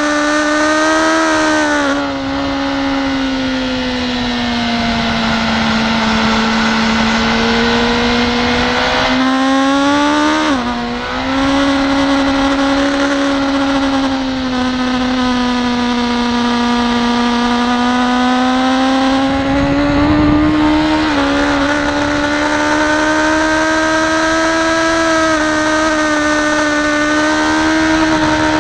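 BMW S1000RR inline-four engine at high revs, heard from on board the bike. The engine note sags slowly and climbs again several times, with a sharp brief dip and jump about ten seconds in, and smaller dips near the start and around two-thirds of the way through.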